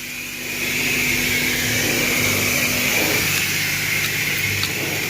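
Self-serve car wash high-pressure wand spraying rinse water, a steady hiss over the low hum of the wash pump, picking up about half a second in.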